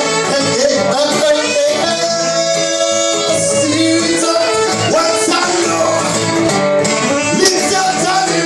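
Live band playing a reggae groove: guitars, a bass line and a voice singing.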